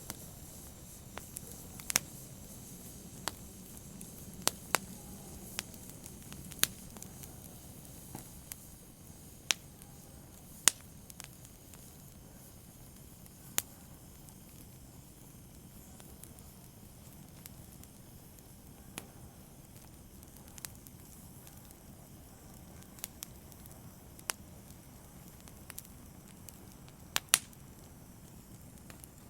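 Open fire crackling, with irregular sharp pops over a soft steady hiss. The pops come thickly for the first dozen seconds, then thin out, with a couple of louder snaps near the end.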